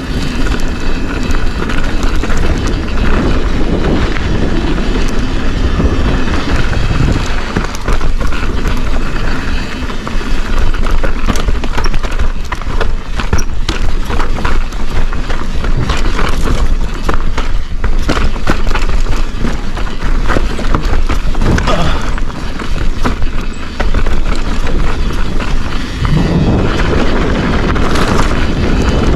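Forbidden Dreadnought mountain bike descending a rough trail: wind buffeting the microphone over the rolling tyres, with a constant clatter of knocks and rattles from the bike over bumps, busiest in the middle stretch.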